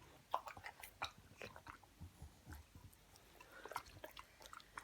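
An Olde English Bulldog chewing a piece of fruit: faint, irregular chewing crunches.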